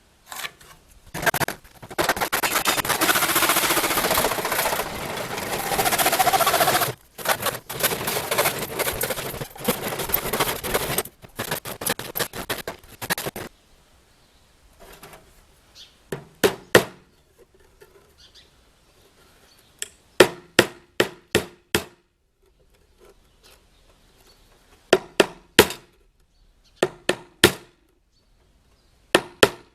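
A loud, harsh rasping noise for about thirteen seconds, with short breaks. Then a hammer strikes wood in quick bursts of three to five blows, with pauses of a few seconds between bursts.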